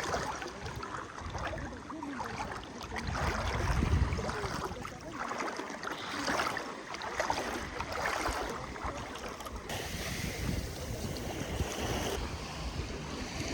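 Small sea waves washing in and receding, swelling every second or two, with wind buffeting the microphone.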